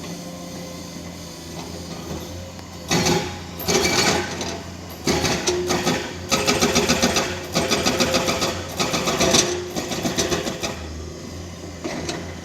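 Excavator-mounted hydraulic rock breaker hammering rapidly on rock in several bursts of a second or so each, starting about three seconds in and stopping near the end, over the steady running of the excavator's diesel engine.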